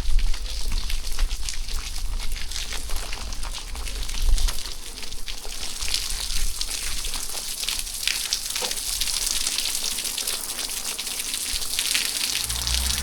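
Steady rain falling, a dense patter of many small drops, with a low rumble over the first few seconds. A low hum comes in just before the end.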